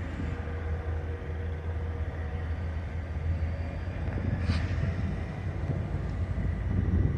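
Train rumbling steadily, with a brief high-pitched squeak about four and a half seconds in.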